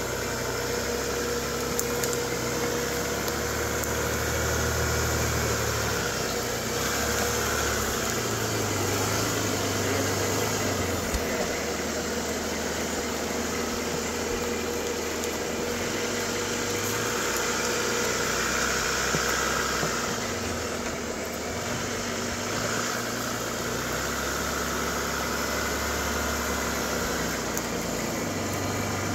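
Jeep Wrangler's engine running at low revs as it crawls over rocks, the revs rising and falling every few seconds.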